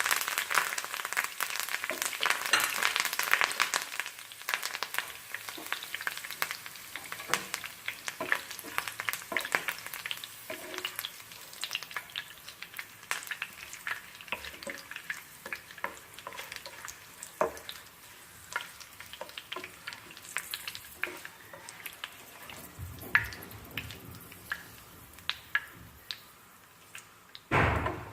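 Curry leaves frying in hot oil, crackling and spluttering densely for the first few seconds, then thinning to scattered pops. A short louder noise near the end.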